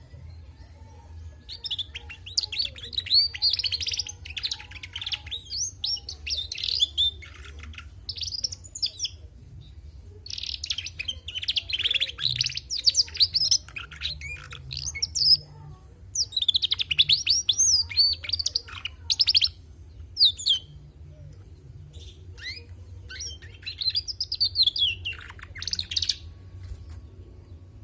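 Female domestic canary singing in four bursts of rapid, high twittering warble, each a few seconds long with short pauses between.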